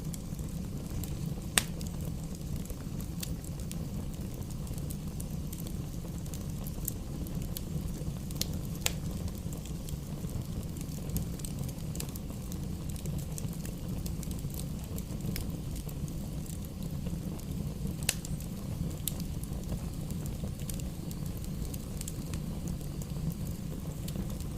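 Campfire burning: a steady low rumble with scattered sharp crackles and pops from the burning wood, two of them louder, about two seconds in and about eighteen seconds in.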